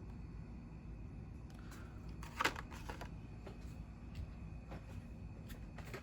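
Carded diecast packaging, cardboard backing and plastic blister, being handled: one sharp crinkling crackle about two and a half seconds in and a few lighter clicks, over a low steady room hum.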